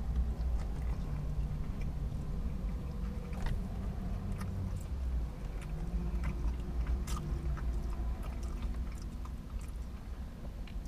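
A man chewing a mouthful of bacon cheeseburger on a pretzel bun close to the microphone, with small wet mouth clicks, over a steady low hum.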